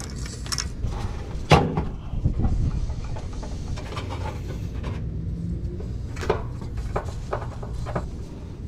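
Knocks and clicks of hand work on car parts: one sharp knock about a second and a half in, a short rattle just after, and a few light clicks near the end, over a steady low hum.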